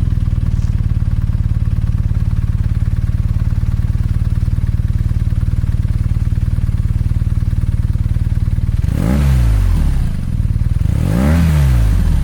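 BMW R nineT's air/oil-cooled boxer twin idling steadily through its exhaust, then blipped twice near the end, the pitch rising and falling back each time.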